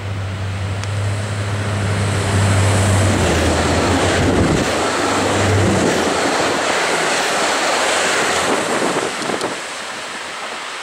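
A JR Central HC85-series hybrid diesel-electric express train passing through a station at speed, without stopping. A low drone sits under a steady rush of wheels on rails, which drops off about a second before the end.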